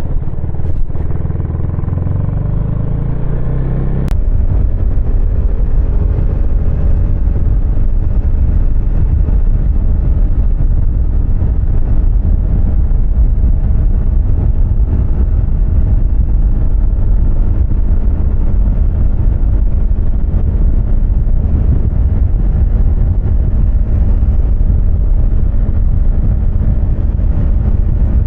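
Husqvarna Svartpilen 250's single-cylinder engine pulling up in pitch over the first few seconds. A sharp click comes about four seconds in, after which the engine runs steadily at speed under a loud, even rumble.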